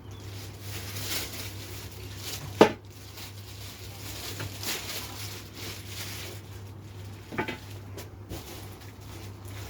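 Handling noise from unboxing power rack parts and packaging: light rustling, a sharp knock about two and a half seconds in and a lighter one near seven and a half seconds, over a steady low hum.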